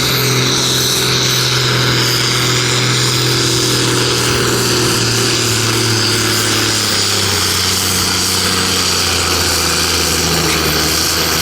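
Competition pulling tractor's engine running loud and steady, its pitch slowly falling.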